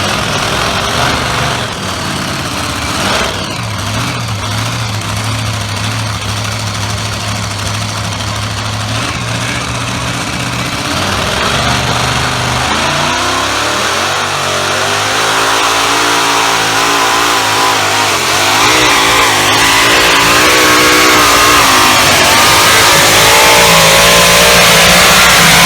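Engine of a modified pulling tractor: it drones steadily at a low idle, then about halfway through revs up and runs hard under load, its pitch wavering up and down and growing louder toward the end.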